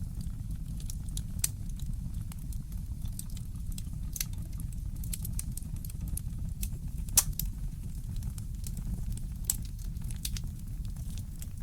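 Wood fire in a fireplace crackling, with irregular sharp pops, the loudest about seven seconds in, over a steady low rumble.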